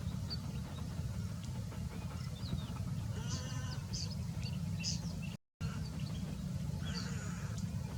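Birds chirping in short high notes, with two harsher drawn-out calls, over a steady low rumble. The sound cuts out for a moment about five and a half seconds in.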